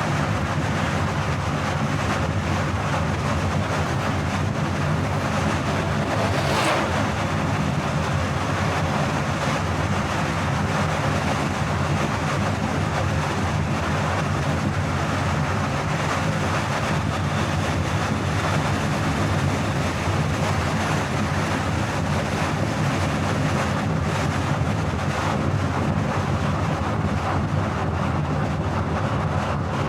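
Steady road noise of a car cruising on a highway: a constant low drone of engine and tyres with wind noise over it. About six seconds in there is a brief louder swell.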